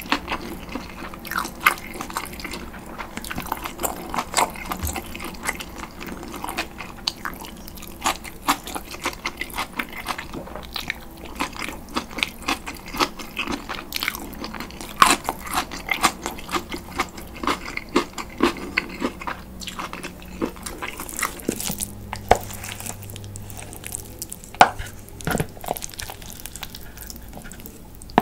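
Close-miked chewing and biting of a mouthful of cold noodles and grilled pork: a dense run of short, wet mouth clicks and smacks, which thins out to a few sharp clicks in the last several seconds.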